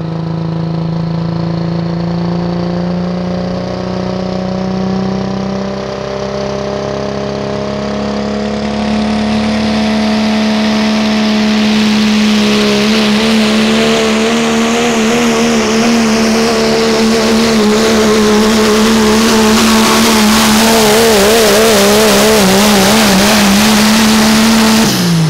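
A 1997 Dodge Ram pulling truck's engine is held at high revs under load during a sled pull. Its pitch steps up twice and wavers late in the run. Near the end it drops sharply as the throttle is let off.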